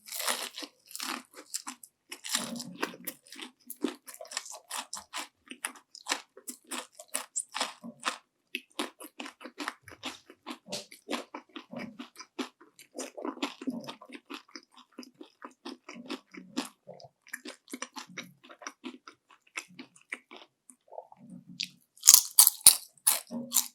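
Close-miked chewing of crispy panko-breaded fried shrimp: a dense run of crisp crunches as the coating breaks between the teeth. A louder, sharper crunch near the end is a fresh bite.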